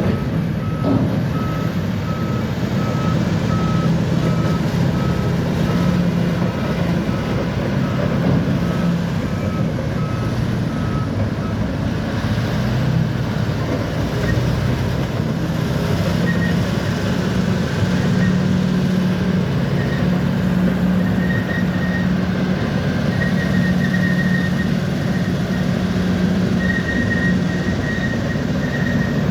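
Bulldozer's diesel engine running steadily under load, with its reversing alarm beeping at about two beeps a second for the first ten seconds or so. From about the middle on, a higher-pitched alarm beeps in short runs.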